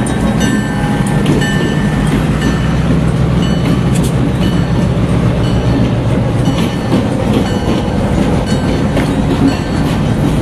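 A freight train passes slowly at close range: the steady diesel drone of CN locomotives, including a GMD1 switcher going by, with wheels clicking over the rail joints as the loaded flatcars follow.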